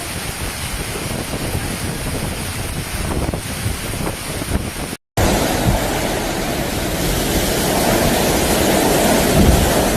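Hail and wind storm: a dense, steady rush of noise with wind buffeting the microphone. It cuts out for an instant about halfway through and comes back louder.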